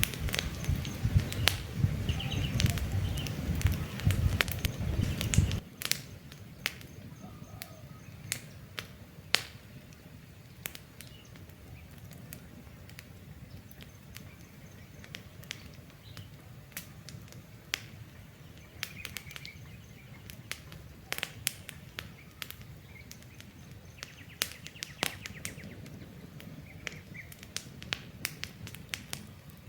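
Wood campfire crackling with sharp irregular pops, with birds chirping faintly. A louder low rumble in the first five or six seconds stops suddenly, leaving the crackles and birdsong.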